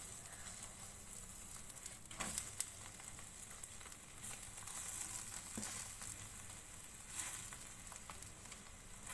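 Bread omelette frying in oil in a pan over a low flame, just flipped to cook its second side: a steady sizzle, with a few brief clicks about two and seven seconds in.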